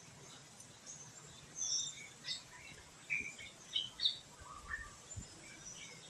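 Small birds chirping, many short high chirps and calls scattered irregularly, over a faint steady background hiss of forest ambience.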